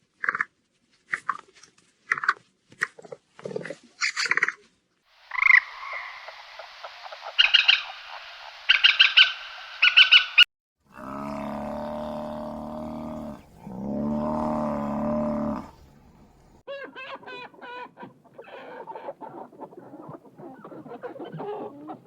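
Several different animal calls cut one after another: a string of short calls, then a run of higher calls, then two long low drawn-out calls, and last a rapid series of chirping, croaking calls.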